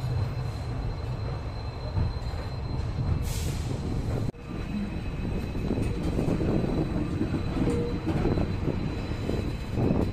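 Passenger train pulling out slowly, heard from an open coach doorway: a steady low rumble of wheels on the rails, with more rattling and clatter in the second half as it gathers speed. A brief hiss about three seconds in, and the sound drops out for an instant just after four seconds.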